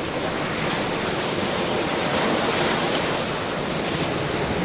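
Ocean surf washing steadily on a shore, with a wave surging a little louder a couple of seconds in and then easing off.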